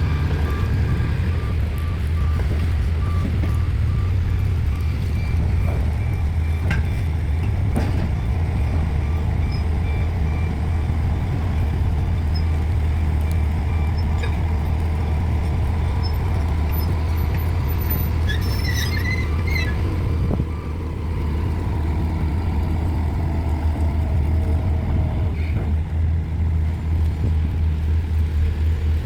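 Heavy diesel engine of a pile-driving rig running steadily with a deep rumble. Short repeated electronic beeps come through early on, and a few knocks sound about seven and eight seconds in.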